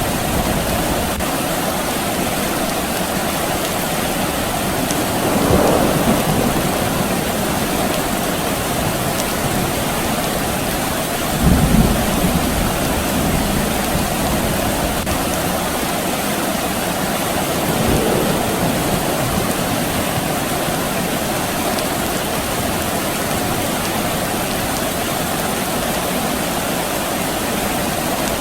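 Steady rain with distant thunder rumbling three times: a short rumble about six seconds in, a louder, sharper one near twelve seconds, and a fainter one near eighteen seconds.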